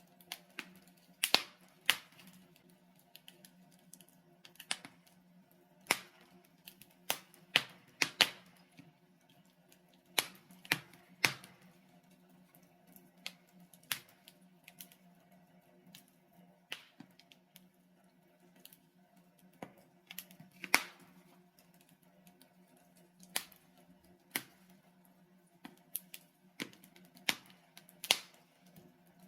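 Logs burning in a fireplace, crackling with irregular sharp pops, a few of them loud, over a faint steady low hum.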